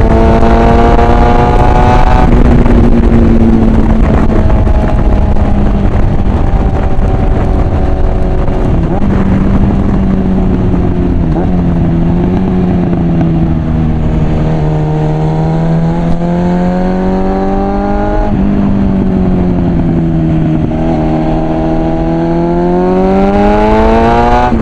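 Suzuki GSF650 Bandit's inline-four engine through a Mivv aftermarket exhaust, riding under way: the engine note climbs under throttle in the first couple of seconds, then eases and holds for a while, and rises and falls a few more times before climbing strongly again near the end.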